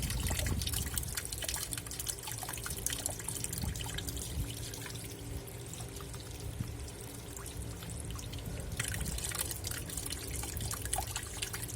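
Water running into a Black & Decker washing machine's tub through the detergent dispenser, a steady trickling and splashing as the tub fills.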